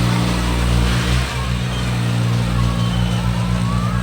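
Tractor diesel engine running at a steady speed, its low, even firing pulse clear, with a slight change in pitch about a second in.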